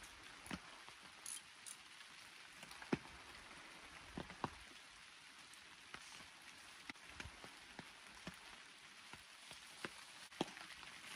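Rain falling on an umbrella overhead: a faint steady hiss with scattered sharper drop hits, a few of them louder.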